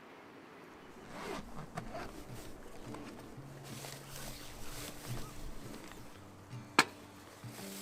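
Camping gear being handled: a zipper being pulled, with rustling and scraping, and one sharp click near the end.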